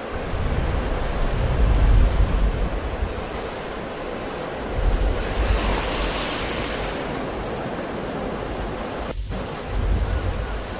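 Sea waves breaking and washing in a steady surf, one brighter hissing wash about six seconds in. Wind buffets the microphone in low rumbling gusts near the start, mid-way and near the end.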